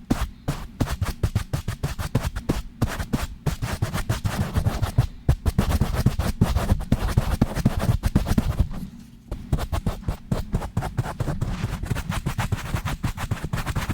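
Fast, rough ASMR handling right on a microphone: rapid scratching, brushing and hand pumping over the mic, many strokes a second with heavy low thuds. There is a brief pause about nine seconds in.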